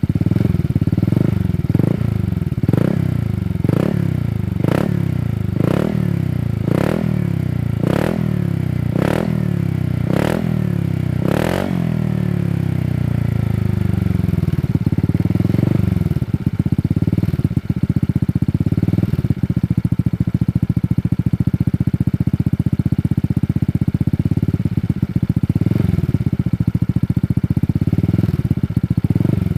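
Honda Vario 160 scooter's single-cylinder engine through a Shijiro Opel 1 aftermarket racing exhaust, blipped repeatedly about once a second for the first twelve seconds or so, each rev rising and falling quickly, then settling into a steady idle with a few light blips near the end.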